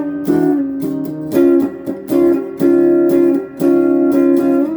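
Electric guitar on its neck pickup, played through a Crate GX15R amp and a Golden Plexi overdrive pedal, strumming a series of chords that ring briefly and are cut off before the next. The guitar's volume knob is backed down to about 7 to hear how the overdrive cleans up.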